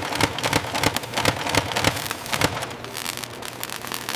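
Water spattering: a dense, irregular patter of small crackles and clicks over a steady hiss.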